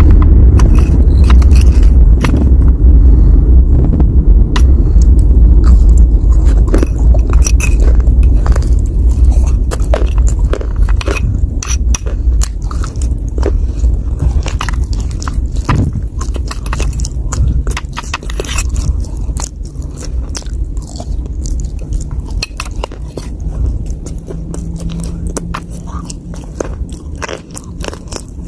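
Close-up biting and chewing of dry earth and clay chunks, with many sharp, crisp crunches throughout. A heavy low rumble sits under the first half and gradually fades.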